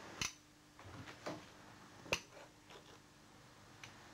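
A few sharp metal clicks and knocks from a potato ricer being squeezed over a plate, the loudest about two seconds in.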